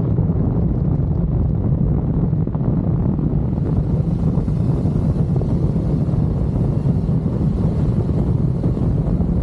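Sport bike engine running at a steady pace while riding, mixed with wind rushing over the microphone.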